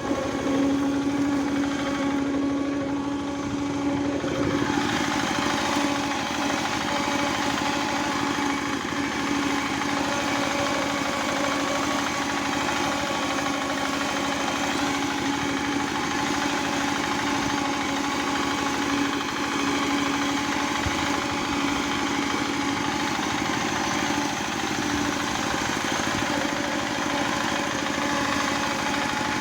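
Tractor engine running steadily at an unchanging speed, with a constant droning note.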